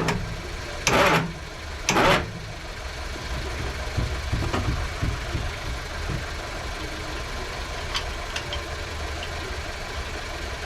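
An engine running steadily with a low rumble, with two short loud rushing bursts in the first couple of seconds.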